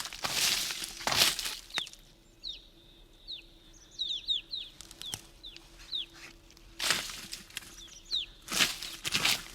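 A small bird's short, high, down-slurred chirps, repeated many times, broken by about five loud, scratchy rushes of noise, each under half a second: two near the start, one about a second in, and two or three near the end.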